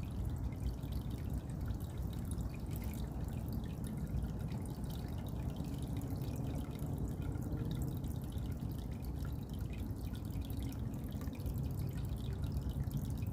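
Water dripping: a dense, irregular patter of drops over a steady low rumble.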